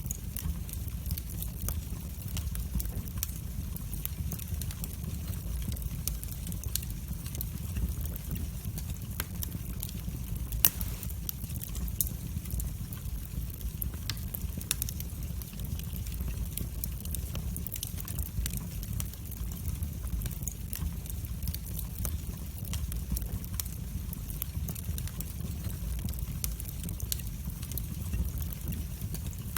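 Wood fire burning in a fireplace: a low steady rumble of the flames with frequent sharp crackles and pops at irregular moments, one pop louder than the rest about ten seconds in.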